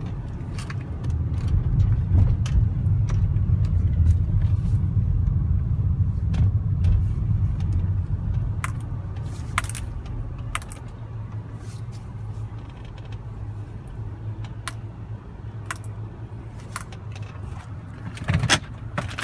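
A 2011 Hyundai Sonata being driven and brought to a stop, its engine and road noise a steady low drone that eases off about halfway through, with scattered light clicks and jingles. The engine, repaired after a spun number one rod bearing, runs quietly without a knock.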